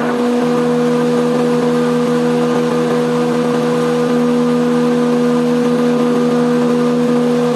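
Bandsaw machine running with a steady, unchanging hum.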